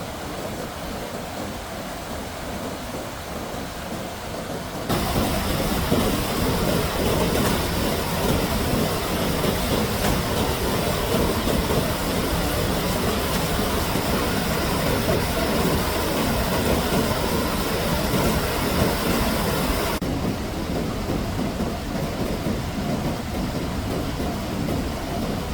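Steady rushing noise of heavy water, rain and floodwater, with no words. It jumps abruptly louder and brighter about five seconds in and drops back just as abruptly about twenty seconds in.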